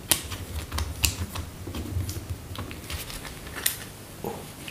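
Irregular sharp clicks and taps of metal parts being handled as a solenoid valve is screwed back onto an LPG reducer, with a low rumble under the first few seconds; the clicking thins out after about three seconds.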